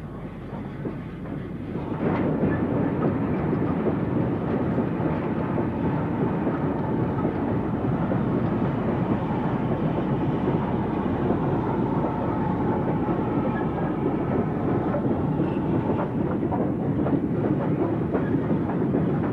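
Steam-hauled train running past, growing louder over the first two seconds and then steady, with the wheels clicking over the rail joints.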